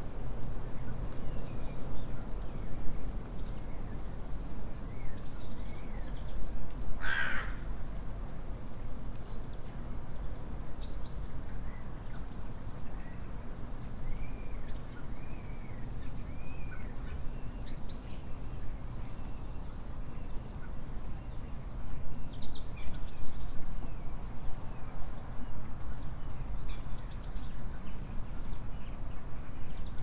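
Wild songbirds giving short, scattered chirps and calls from bare winter trees, with one loud, harsh cawing call about seven seconds in, over a steady low background rumble.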